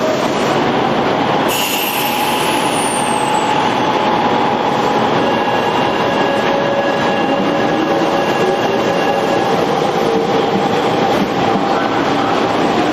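Tokyo Metro 5000 series electric train running: a steady, loud rumble of wheels on rail with faint whining tones that shift slowly in pitch.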